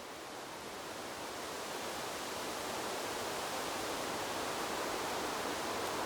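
Wind blowing through a bamboo grove, a continuous rustling wash of leaves that swells gradually over the first few seconds and then holds steady.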